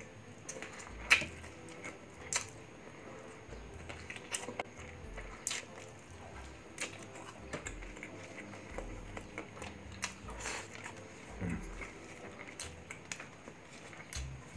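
Close-miked eating by hand: chewing and wet lip smacks as grilled chicken and rice are eaten, with scattered sharp mouth clicks, the loudest about a second in.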